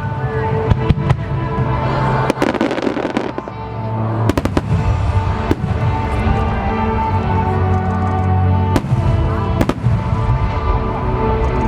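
Large aerial fireworks bursting at intervals over music playing throughout, with a dense crackle of bursts about two to three seconds in.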